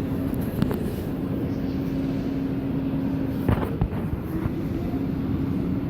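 Train standing in the station with its engine or equipment running: a steady low rumble with a steady hum. Short knocks come about half a second in and again about three and a half seconds in.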